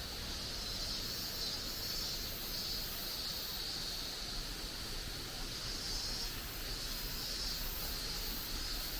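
A steady chorus of insects in the woods: a high, shrill buzz that swells and fades every second or so, with a fainter, higher pulsing buzz above it.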